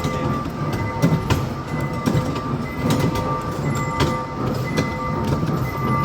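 Small mall tour train running: a steady low rumble with frequent light rattles and clatter, and a few steady high tones that drop out early on and return near the end.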